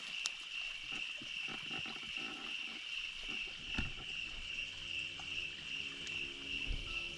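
Crickets chirring steadily in the woods at night, with a few faint clicks and rustles. About halfway through, a low, steady drone-like tone comes in underneath.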